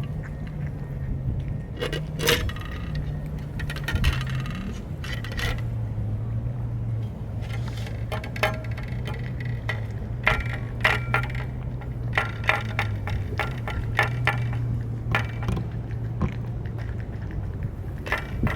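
Dry cat food clinking and rattling against a dish in scattered sharp ticks, over a steady low hum whose pitch steps down about four seconds in.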